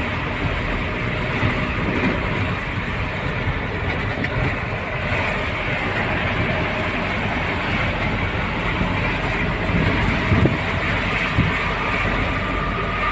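Steady running noise of a moving truck on the road: continuous engine and road rumble, with a couple of brief knocks about ten seconds in.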